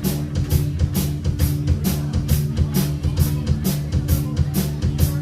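Live rock band playing an instrumental passage: a drum kit keeps a steady beat of about four hits a second under a bass guitar line and electric guitar.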